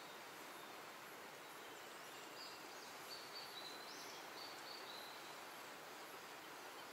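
Quiet outdoor ambience, a faint steady hiss, with a bird whistling a run of short, high, level notes from about two and a half to five seconds in, one of them rising.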